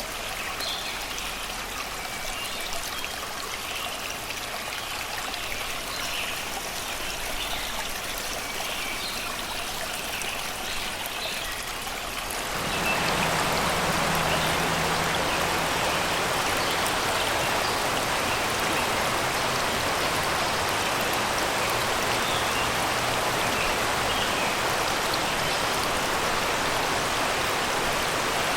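Shallow river flowing and babbling over rocks and stones, with birds singing in the forest. About halfway through the water gets louder and fuller and the birdsong drops back.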